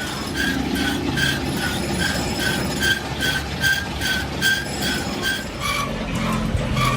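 Metal being machined on a workshop machine tool, most likely work on a crankshaft: a short squeal repeats about two and a half times a second over a steady low hum. About six seconds in, the squeals drop in pitch and come more slowly.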